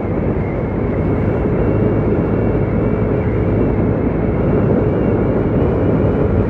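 Steady rush of wind and road noise with a motorcycle engine running, heard from a motorcycle on the move in traffic.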